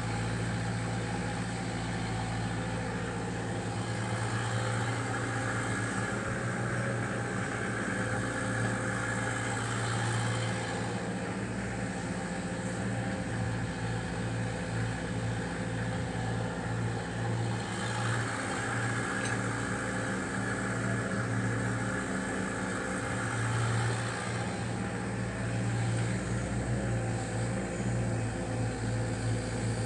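Caterpillar 305D mini excavator's diesel engine running steadily, with a higher rushing sound that comes in twice for several seconds, about four seconds in and again near eighteen seconds.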